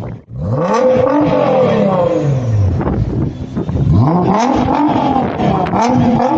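A car engine accelerating hard twice: its pitch climbs steeply, then drops away, about a second in and again about four seconds in.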